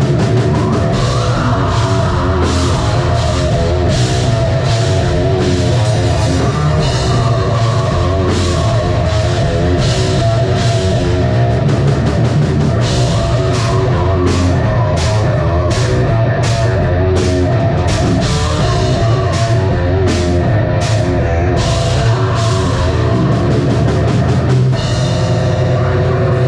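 Live metal band playing loud, with distorted guitars, bass and a drum kit keeping a steady beat with cymbal hits. Near the end the drumming stops and a held chord rings.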